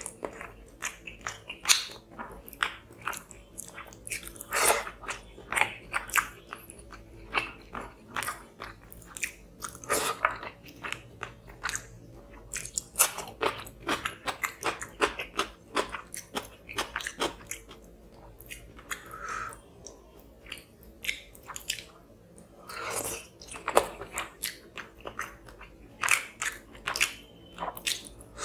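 Close-miked eating sounds: a steady run of chewing, wet mouth clicks and smacks from a mouthful of tilapia fish curry and rice, with fingers squishing food on the plate.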